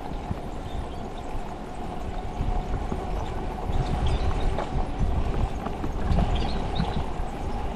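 Bicycle ride noise: wind buffeting the microphone and tyre rumble over pavement, with a rattling, knocking rhythm that grows louder in the middle. There are a few faint high squeaks near the middle.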